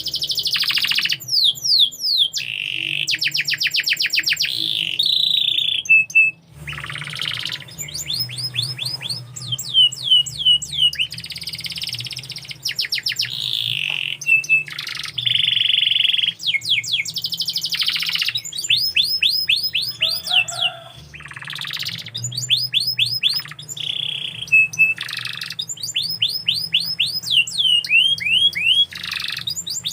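Domestic canary singing a long continuous song: rapid trills of repeated down-slurred notes alternating with held whistled tones and rolling phrases, with only short breaks.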